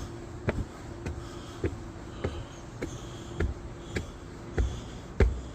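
Footsteps of a person walking on a mountain trail at a steady pace, a little under two steps a second.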